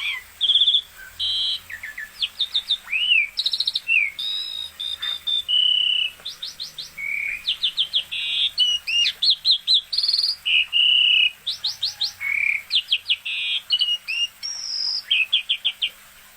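Javan pied starling (jalak suren) singing continuously in full, vigorous song: a rapid, varied run of whistled notes, quick series of short repeated notes and gliding calls, with hardly a pause.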